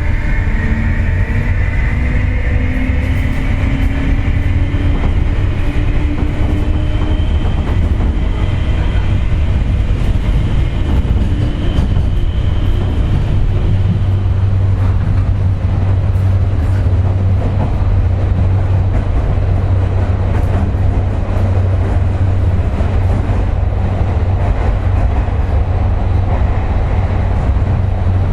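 Interior running sound of a JR West 201 series electric train (armature-chopper motor car) accelerating away: traction motor whine rising in pitch over the first dozen seconds. It then gives way to steady rolling noise over a low hum.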